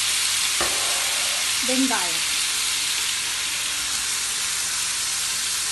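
Ghee with spice and shallot paste sizzling steadily in a frying pan, with one sharp click about half a second in.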